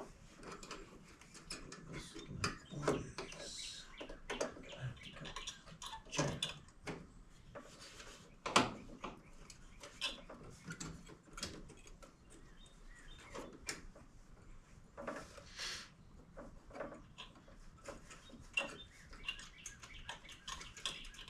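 Scattered small clicks, taps and scrapes of hand tools and metal fittings being handled and fitted, with light rustling between them. The loudest knock comes about eight and a half seconds in.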